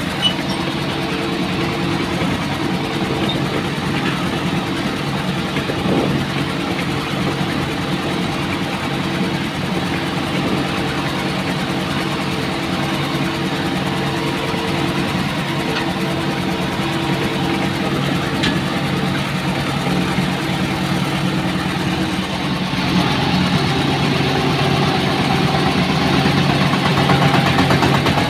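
Tractor engine running steadily, possibly under load. About 23 seconds in, its note shifts and it grows louder.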